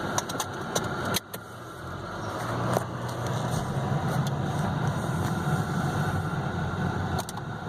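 A few sharp clicks and a knock inside the car in the first second or so, then the 2015 Chevy Malibu's engine and road noise, heard from the cabin, as the car pulls away and drives on steadily.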